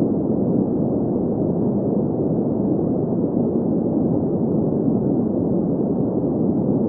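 Green noise: a steady, even rush with most of its weight in the low-middle range, muffled and without any high hiss.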